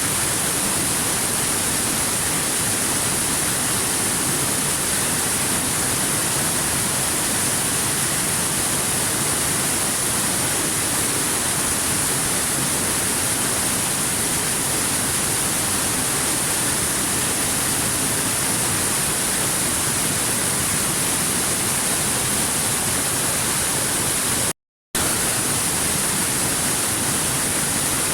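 Waterfall rushing in a steady, unbroken roar of water noise with a strong high hiss, cutting out to silence for a split second near the end.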